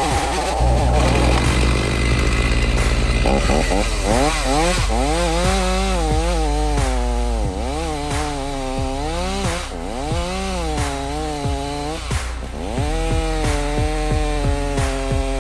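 Stihl 039 two-stroke chainsaw running, its engine pitch rising and falling over and over as it revs and drops back.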